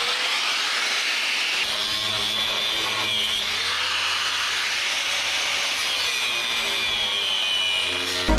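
A power tool running steadily under load with a rasping noise as it works off old caulking sealant.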